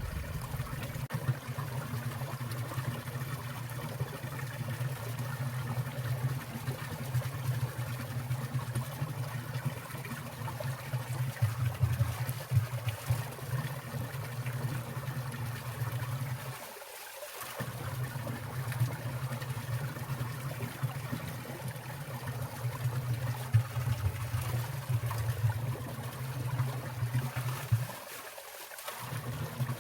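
Water trickling and falling in a winter mountain stream, a steady splashing flow. Its low rumble dips briefly twice.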